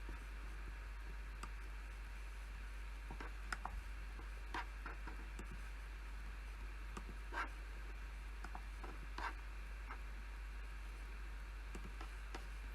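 Sparse, irregular clicks from a PC keyboard and mouse, single taps and short clusters with pauses between, over a steady low hum.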